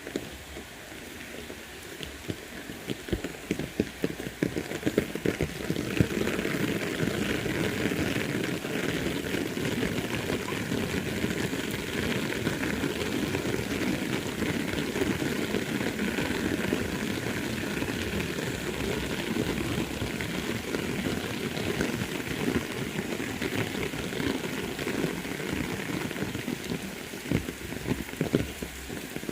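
Heavy rain falling, with many close, individual drop hits pattering. It grows heavier about five seconds in and eases off again near the end.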